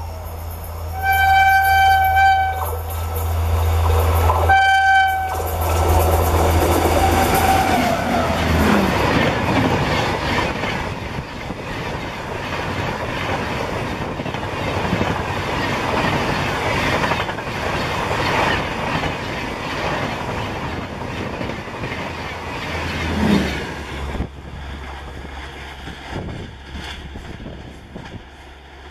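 WAP-7 electric locomotive hauling a Rajdhani Express of LHB coaches sounds its horn twice, a long blast then a short one, over a low running hum, then the train passes at speed with a loud rush and clatter of wheels on rails. Near the end the sound drops suddenly to a quieter rumble as the train recedes.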